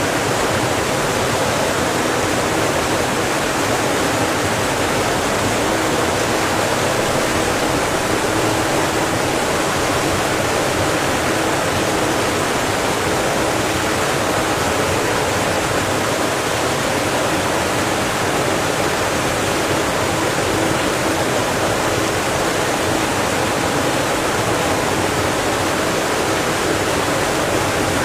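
Steady, even rushing noise, unchanging throughout, with a faint low hum beneath it.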